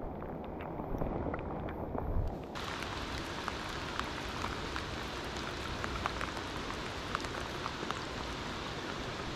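Steady rain falling, with many single drops ticking close to the microphone. The first two and a half seconds sound muffled, then the rain sounds clearer.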